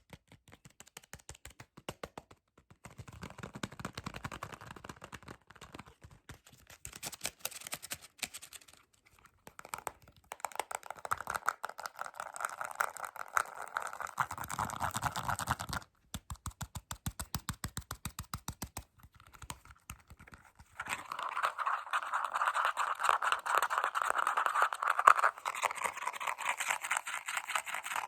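Fast, aggressive tapping and scratching: dense rapid clicks in runs of several seconds, broken by short pauses. The loudest runs come about ten seconds in and again about twenty-one seconds in.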